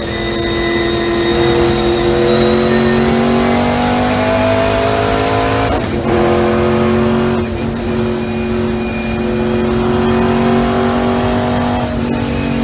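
Race car engine running hard at high revs, its pitch climbing slowly, with brief breaks in the engine note about six seconds in and again near the end.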